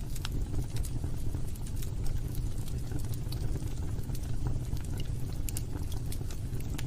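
Log fire burning in a fireplace: a steady low rumble of flames with scattered small crackles and pops.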